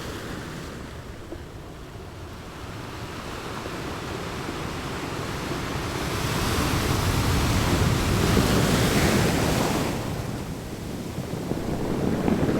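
Ocean waves breaking on a shore: the surf swells to a long crash in the middle, then eases off and starts building again near the end.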